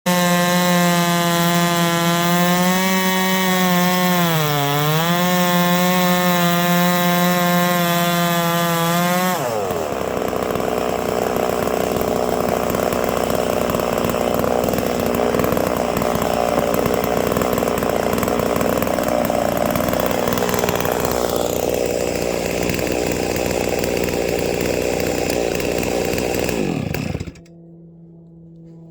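Holzfforma G660 98.5cc big-bore chainsaw running at high revs, its pitch dipping briefly about five seconds in. It then goes rougher and noisier for most of the rest, as when it is cutting a log on a chainsaw mill. Near the end the revs fall away and the sound drops off sharply.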